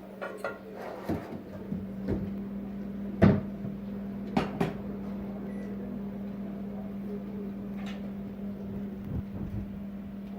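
A few short knocks and clunks, the loudest about three seconds in and a quick pair about a second later, over a steady low hum.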